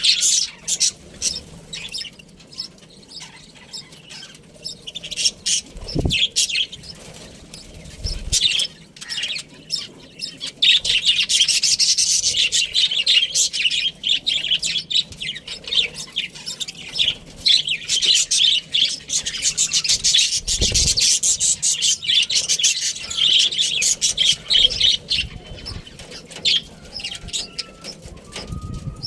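Budgerigar chirping and chattering in quick, high notes, sparse for the first ten seconds or so and then nearly unbroken. A few short low thumps stand out, about six, eight and twenty-one seconds in.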